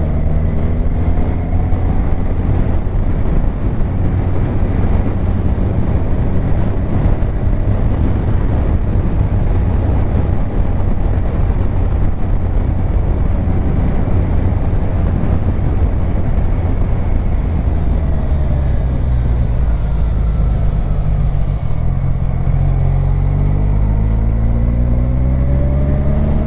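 Kawasaki Ninja 1000's inline-four engine running under a heavy rush of wind noise as the motorcycle rides along. The engine note climbs in the first couple of seconds and again in the last few seconds as the bike accelerates.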